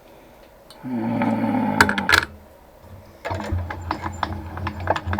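A small benchtop machine tool's electric motor runs for about a second and a half and stops. About three seconds in it starts again and keeps running with a fast, uneven rattle of ticks.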